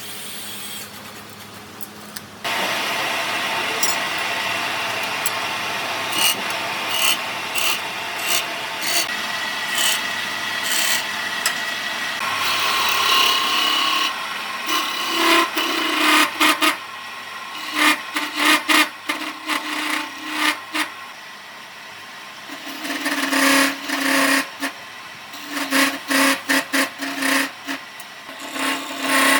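A tool working wood: a steady rasping noise starts about two seconds in, then breaks into many short strokes in the second half, with a low hum that comes and goes.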